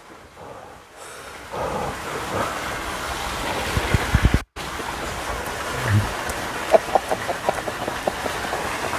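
A person eating an oversized spoonful of braised chicken and rice: low bumps as the spoon goes into the mouth, then a run of wet chewing clicks, over a steady rushing background noise. The sound drops out briefly about four and a half seconds in.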